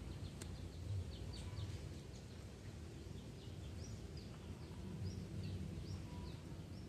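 Small birds chirping: many short, high chirps scattered throughout, over a steady low rumble of background noise.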